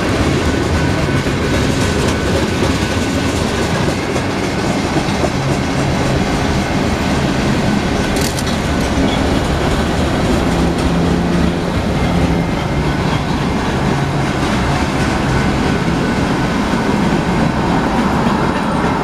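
Union Pacific mixed freight train's cars passing over a grade crossing: a loud, steady rumble of steel wheels on the rails.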